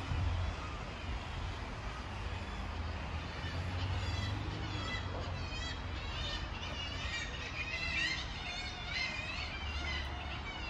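Outdoor ambience: a steady low rumble, with birds chirping and warbling over it from about four seconds in, more busily in the second half.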